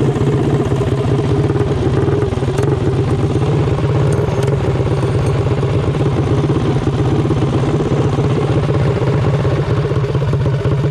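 Mini bike's small single-cylinder engine running steadily under throttle, a fast, even pulse with no break.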